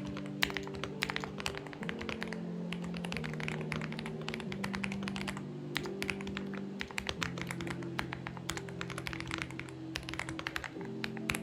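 Typing on a Xinmeng X98 mechanical keyboard: quick runs of keystrokes with short pauses, stopping near the end. Soft background music with sustained chords plays underneath.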